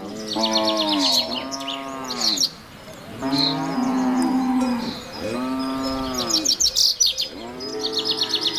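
Cattle mooing, about five long moos one after another, with small birds chirping in quick trills in the background.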